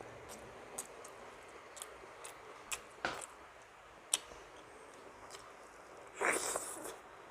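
Close-up eating sounds of a person eating milkfish stewed in vinegar: scattered wet mouth clicks and smacks as they chew, with a louder, noisier smack or rustle lasting under a second about six seconds in.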